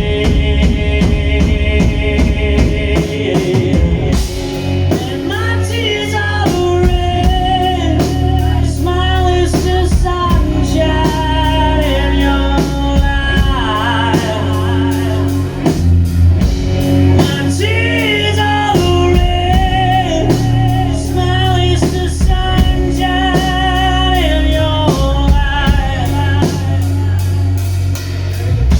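Live rock band playing a slow song: drum kit, bass and guitars, with sustained chords at first, then a lead melody that bends and wavers in pitch over the top from about five seconds in.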